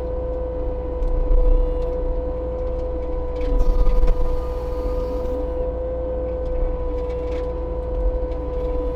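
Case TV450 compact track loader running with its Fecon forestry mulching head spinning: a steady high whine, with louder grinding surges about a second and a half in and again around four seconds in as the head chews into a stump and its root.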